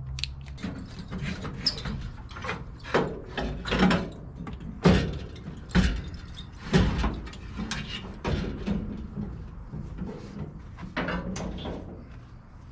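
Irregular clanks and knocks of tools and metal parts being handled, roughly one a second, while parts are taken off a car's 318 V8 ahead of engine removal.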